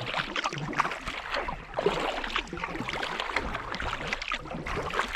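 Kayak being paddled: the paddle blades dip, splash and drip, and water trickles and slaps along the hull in many small, irregular splashes.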